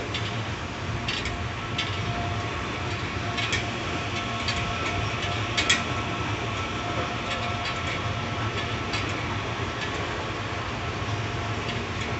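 CPTM series 8500 electric multiple-unit train running on the track: a steady low rumble with a faint steady whine, and irregular sharp clicks, the loudest about six seconds in.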